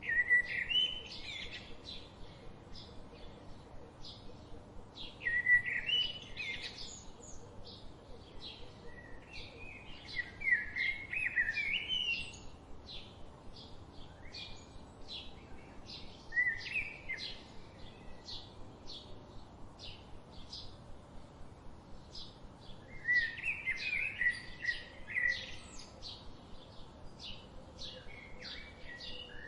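Wild birds singing: one bird gives short, loud warbling phrases every few seconds, while another repeats a brief high chirp about twice a second throughout.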